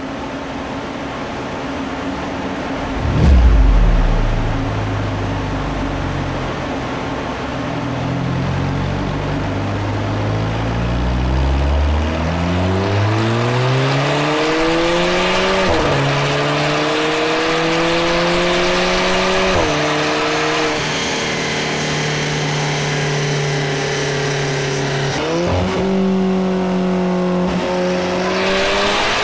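Alfa Romeo 4C's turbocharged 1750 TBi four-cylinder engine through a Supersprint cat-back exhaust. It starts with a loud burst about three seconds in and runs steadily, then revs up under load on a dynamometer, its pitch climbing and dropping back sharply several times as it changes up through the gears.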